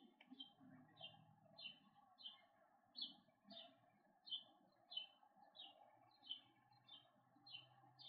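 A bird calling faintly: one short, high, downslurred note repeated steadily, about three every two seconds.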